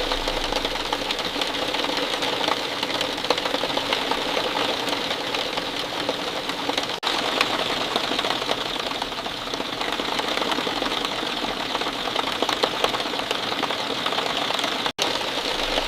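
Steady rain falling, a dense patter of many drops, with split-second dropouts about seven seconds in and near the end.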